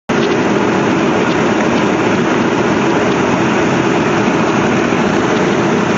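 Steady, loud rushing noise of rain and a car moving on a wet road, with no distinct hail impacts standing out.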